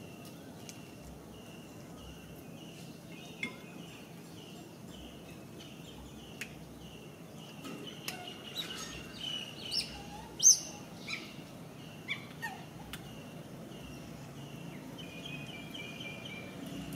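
Bird chirping: a short high call repeated about twice a second, with a few louder, sharper squeaks and chirps a little past the middle.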